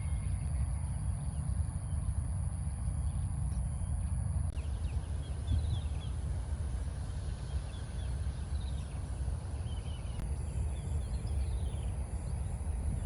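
Outdoor ambience in an open field: a steady low rumble with many faint, short bird chirps coming in about four seconds in and going on with breaks.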